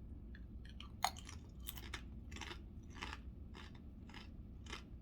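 A person chewing a mouthful of chicken burrito bowl close to the microphone: a run of short, irregular wet crunches and clicks, the sharpest about a second in.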